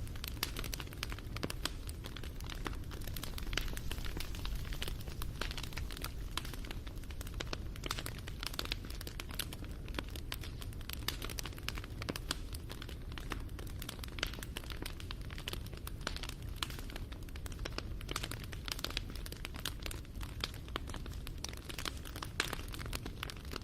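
Wood campfire crackling: dense, irregular small pops and snaps of burning wood over a low steady rumble of flames.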